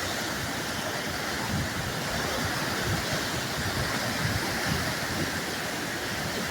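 A river in flood rushing under a bridge, a steady, even wash of fast-moving water, with occasional gusts of wind buffeting the microphone.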